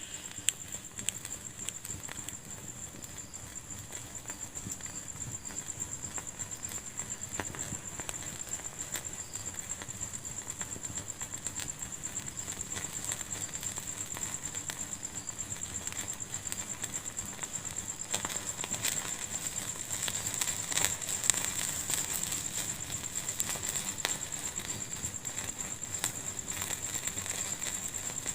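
Wood fire crackling, with many small sharp pops and snaps over a steady hiss and a steady high-pitched whine; the crackling gets busier about two-thirds of the way through.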